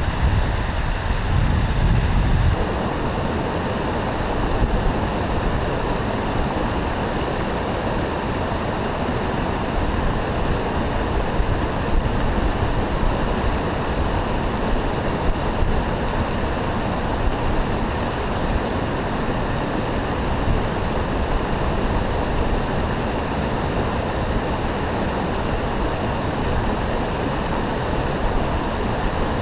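Steady rushing of moorland river water tumbling at the East Dart Waterfall. A heavier low rumble, typical of wind on the microphone, fills the first couple of seconds and then stops abruptly.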